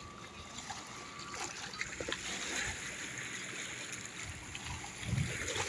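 Sea water washing and lapping at the shoreline, a steady hiss that swells a little in the middle, with a few low thumps about five seconds in.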